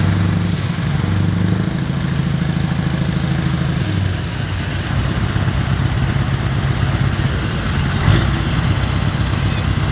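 Scania V8 truck engine (580 hp) running steadily with a deep, even note that shifts slightly a couple of times. There is a single sharp knock about eight seconds in.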